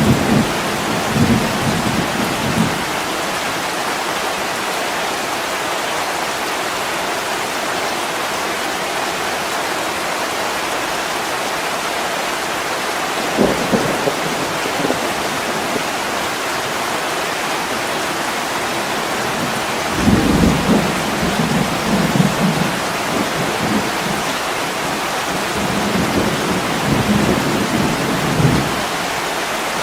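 Heavy rain pouring steadily on a window glass. Low thunder rumbles over it at the start, again briefly about halfway through, and for several seconds in the last third.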